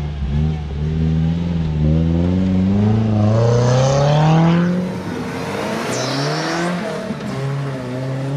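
Off-road 4x4's engine revving under load, climbing steadily in pitch for about four seconds, then easing off about five seconds in and running on at a lower pitch.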